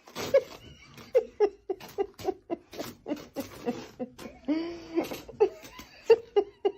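A person laughing hard in quick repeated bursts, about four a second, with a couple of longer drawn-out breaths of laughter partway through.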